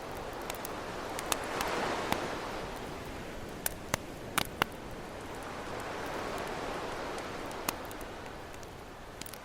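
Campfire crackling with scattered sharp pops, several close together near the middle, over ocean waves washing in that swell twice.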